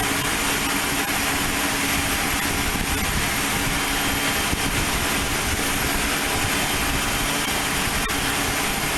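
Aircraft engine running steadily: a constant, even hiss with a faint steady hum underneath.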